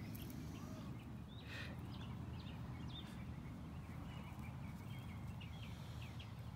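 Outdoor ambience: a steady low rumble with faint small-bird chirps scattered throughout, and a brief rustle about one and a half seconds in.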